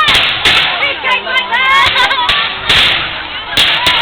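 Fireworks going off in a rapid, irregular run of sharp cracks and bangs, about ten in four seconds.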